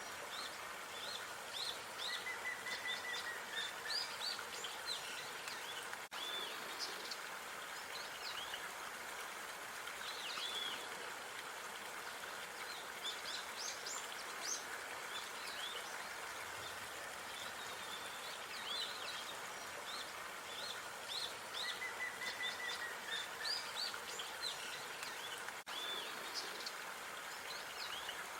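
Park ambience: small birds chirping and twittering in many short, quick calls over a steady background hiss. The sound briefly drops out about six seconds in and again near the end, where the recording loops.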